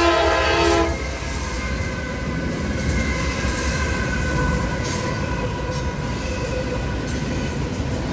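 Train horn sounding a chord that cuts off about a second in, then a train running by with a steady rumble and rail noise and a faint wheel squeal.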